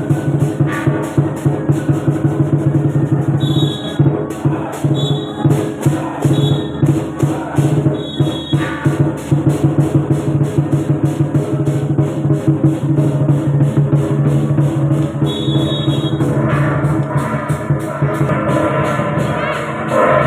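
Procession percussion music: drums and cymbals beating a fast, even rhythm of about four to five strokes a second over a steady low tone.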